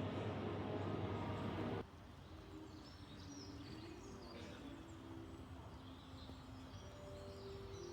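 A steady outdoor noise with a low hum that cuts off abruptly about two seconds in, followed by birds chirping and twittering over faint, steady low tones.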